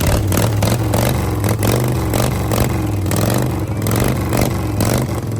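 Racing lawn mower's small engine running close by, its pitch wavering slightly up and down, with repeated clattering knocks over it.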